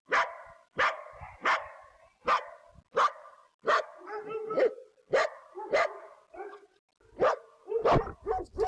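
A dog barking repeatedly, about a dozen short barks at roughly one and a half a second, with a brief pause a little past halfway.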